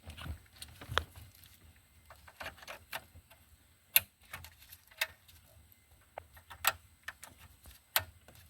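Scattered sharp plastic clicks and light rattles from wiring-harness connectors being plugged into the back of a car's factory radio and climate-control console. The clicks come one at a time at uneven intervals, the loudest about four seconds in.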